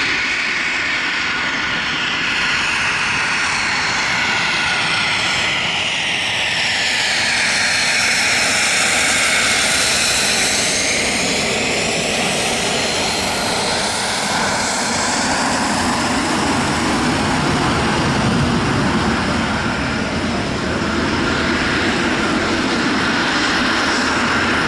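Jet aircraft engines running loudly as the aircraft passes by, a steady noise with a high whine whose pitch sweeps and shifts as it goes past.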